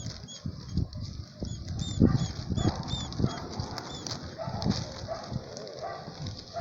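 Scuffling and soft irregular thumps of pets tussling, with short high chirps repeating about twice a second through the first half.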